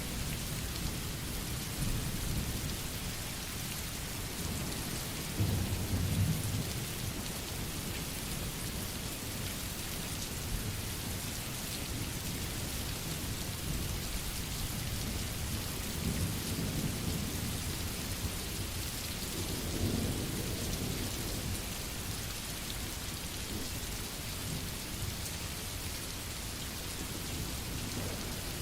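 Steady rain falling, with low thunder rumbling a few times in the background.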